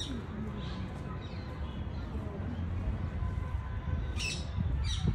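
Open-air ambience with a low steady rumble, crossed by a few short, sharp bird calls that fall in pitch, two of them clear near the end, over a faint murmur of distant voices.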